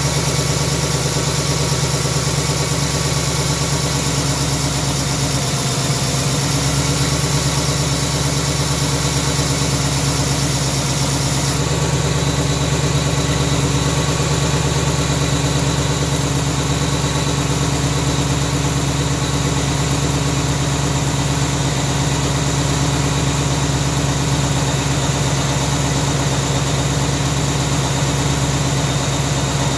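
2018 Mustang GT's 5.0 V8 idling steadily after a cold start. The owner hears no return of the 'BBQ tick' tapping.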